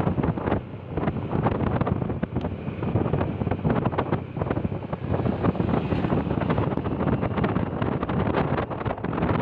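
Wind buffeting the microphone in rapid irregular gusts over a steady low rumble.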